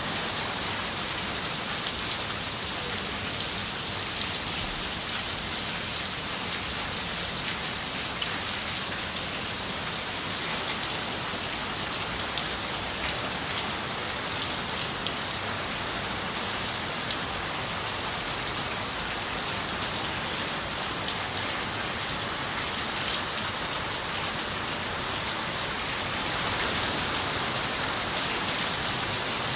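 Steady rain falling on a window, an even hiss with scattered sharp ticks of single drops; it gets a little louder near the end.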